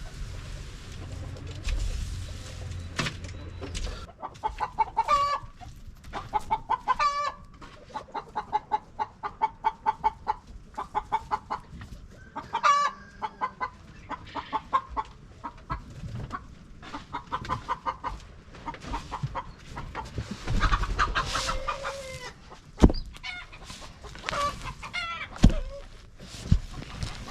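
Chickens clucking in rapid runs of short calls, with a few longer calls among them, and scattered knocks and clatter.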